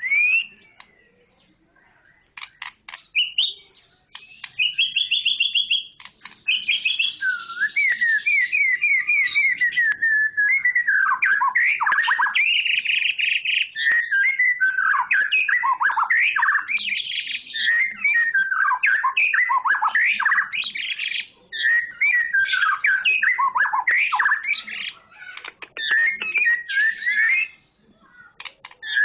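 A songbird singing a long, varied song of rapid whistled phrases, trills and harsher chattering notes, broken by a few short pauses.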